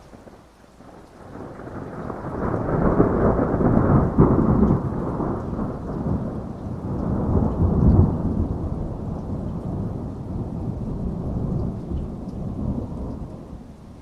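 A long roll of thunder over heavy rain: the rumble swells over the first few seconds, peaks about three and again about eight seconds in, then dies away near the end.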